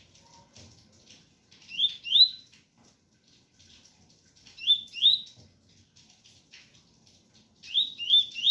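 Double-collared seedeater (coleiro) singing its 'tui tui' song: three short phrases of clear upslurred whistles, two or three notes each, about three seconds apart. Faint rain pattering runs behind them.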